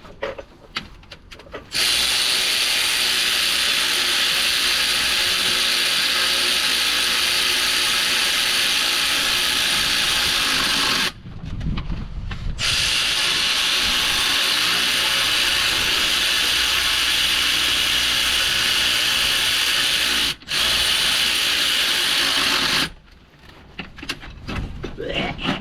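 Cordless power tool running steadily in long stretches, with a sharp start and stop each time. It runs about nine seconds from two seconds in, pauses briefly, runs about eight more, then cuts out for a moment and runs again for a couple of seconds.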